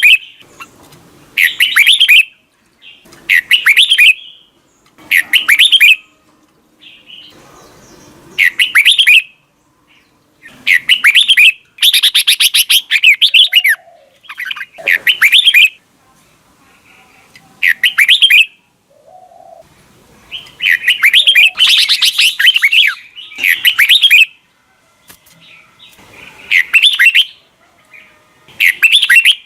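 Red-whiskered bulbuls singing the double-note song: loud, short warbled phrases about a second long, repeated with brief pauses between them, a few phrases running longer near the middle.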